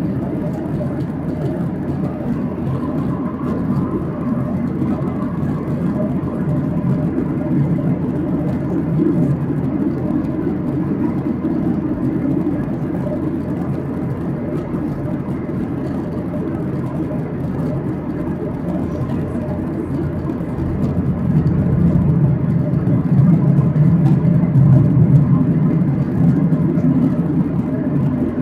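Steady cabin noise of a Boeing 737-800 in flight, heard from inside the cabin: a deep rumble of its CFM56 jet engines and the airflow over the fuselage. It swells a little about 21 seconds in, then eases.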